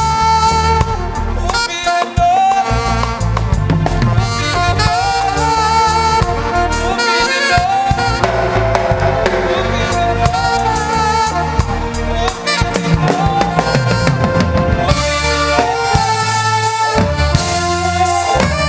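Live reggae band playing an instrumental passage: drum kit and bass keeping a steady beat under a bending lead melody line.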